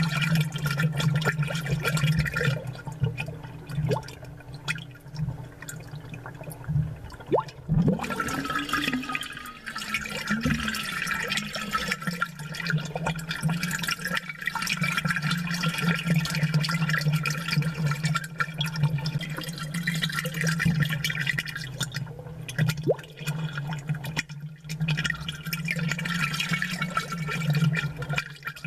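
Aquarium bubbles gurgling and popping at the surface, with many small clicks and a steady low hum under them.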